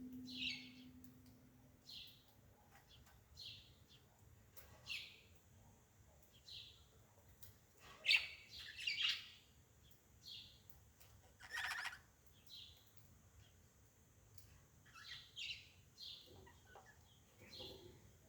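A bird chirping over and over, one short high call about every second, with a few faint clicks in between.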